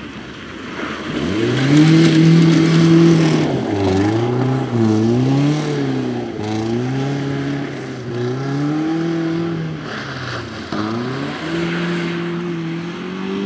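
Audi 80 rally car's engine revving hard under acceleration. The revs climb steeply, hold, then rise and fall repeatedly as the throttle is worked, with a sharp drop and a fresh climb about ten seconds in.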